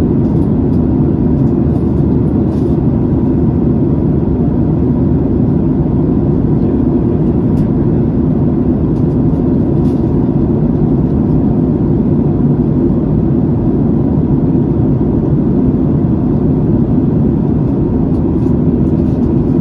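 Aircraft in flight: a loud, steady, low drone of engines and airflow that does not change.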